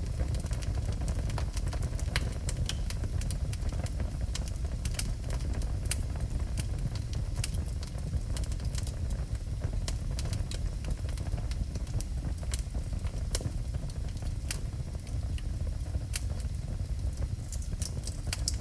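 Wood fire burning in a fireplace: a steady low rumble under irregular sharp crackles and pops.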